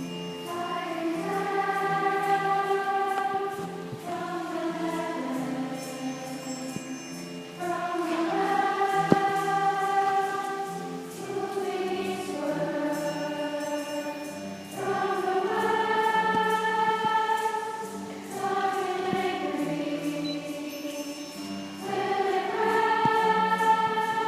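Young choir singing long held chords in phrases that swell and fade every few seconds.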